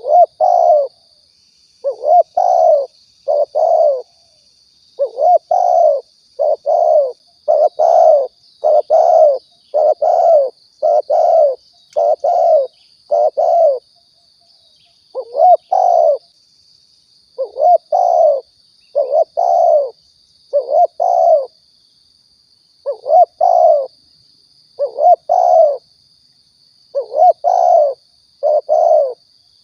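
Spotted dove (tekukur) cooing over and over, short low coos in phrases of two to four notes with brief pauses between phrases: a recorded lure call played to draw in doves. A faint steady high-pitched hum lies underneath.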